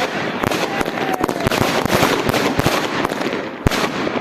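Bonfire burning, with dense, irregular crackling and popping and one louder crack near the end.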